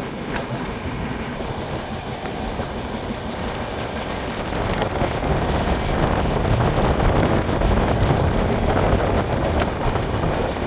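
Express train's wheels running over the rails, heard from on board: a steady rumble and clatter that grows louder about halfway through.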